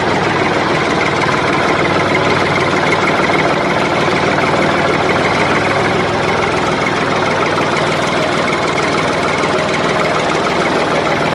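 An engine running steadily at idle, its sound unchanging throughout.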